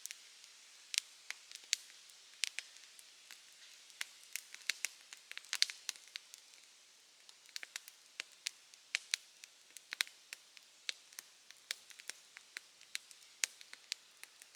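Wood fire crackling: irregular sharp pops and snaps over a faint hiss, a few each second, with a busier run of pops about five seconds in.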